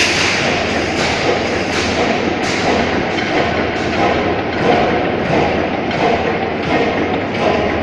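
Bates & Scholes stationary oil engine running slowly, with a regular thump about one and a half times a second over a steady mechanical noise.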